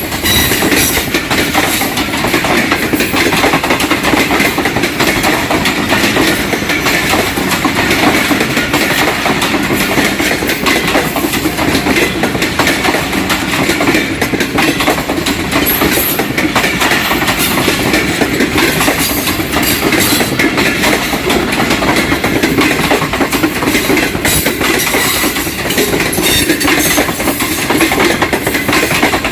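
Karakoram Express passenger train rolling past close by: a steady, loud rumble with the clickety-clack of its wheels on the rail joints.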